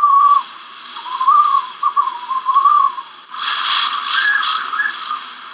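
Hurricane wind whistling in wavering, rising and falling tones, then a loud rush of gusting wind about three seconds in.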